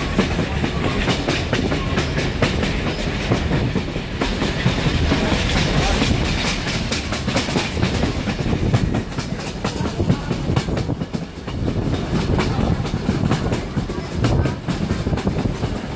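Passenger train car rolling along the rails, heard from on board: a steady rumble with the clickety-clack of the wheels running over the rail joints.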